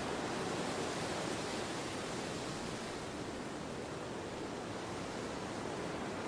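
Steady wind ambience: an even rushing hiss without distinct gusts, holding a constant level throughout.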